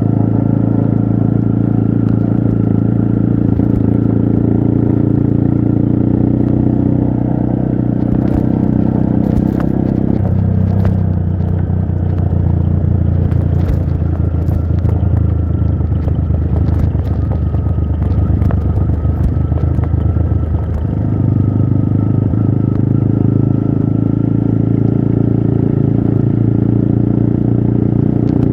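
Trail motorcycle engine running steadily under load, easing off about ten seconds in and picking up again about twenty seconds in, with scattered clicks and clatter over it.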